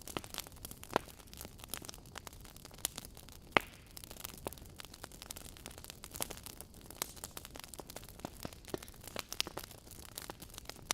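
Wood fire burning in a fireplace: irregular sharp crackles and pops over a soft steady hiss, with one louder pop about three and a half seconds in.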